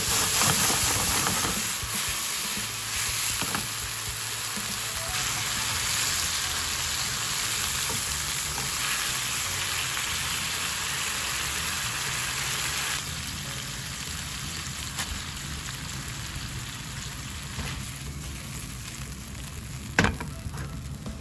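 Konnyaku pieces and chopped green onion sizzling in sauce in a hot nonstick frying pan, stirred with a spatula, as the sake in the sauce cooks off. The sizzle drops in level about two-thirds of the way through, and there is one sharp knock near the end.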